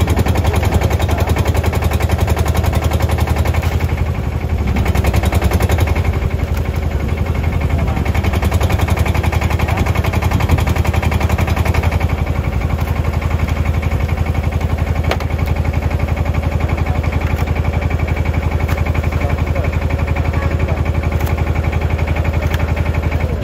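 An engine running steadily close by, with a rapid, even knocking beat over a deep low rumble.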